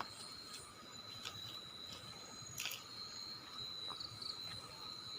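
Crickets and other night insects trilling steadily in faint, even chirps, with a few soft clicks.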